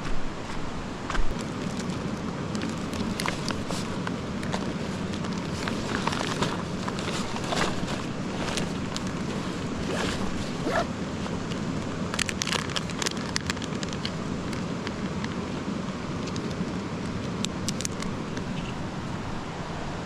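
Steady rush of flowing creek water, with many scattered clicks and rustles of close-by handling, a cluster of them about twelve seconds in.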